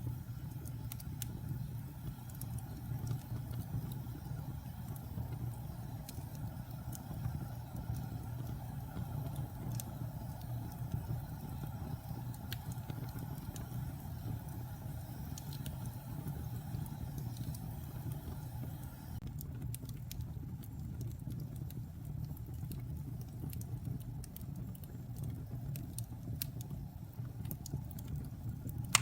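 Wood fire burning in a fireplace: a steady low rumble of flames with scattered crackles and pops, which come more thickly for roughly the last third.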